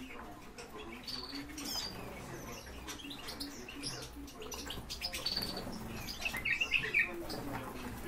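Songbirds giving a few short, high chirps, with a quick run of louder chirps about seven seconds in, amid light taps and brief wing flutters.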